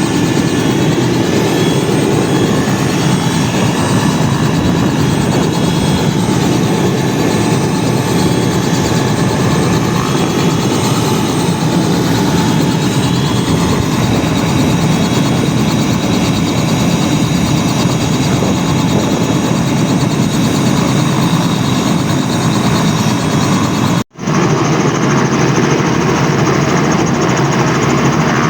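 Robinson R66 helicopter running close by for take-off: a loud, steady mix of rotor noise and the whine of its Rolls-Royce RR300 turboshaft engine. The sound cuts out for a split second about 24 seconds in, then resumes unchanged.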